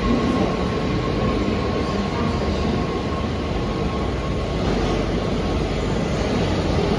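Electric train running through the station with a steady rumble of wheels on rail. A thin high whine fades away over the first few seconds.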